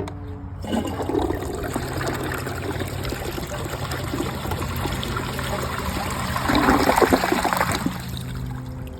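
2005 Crane Athens toilet flushing: water rushes into the bowl about half a second in. It swirls steadily, grows loudest about seven seconds in, then dies down near the end.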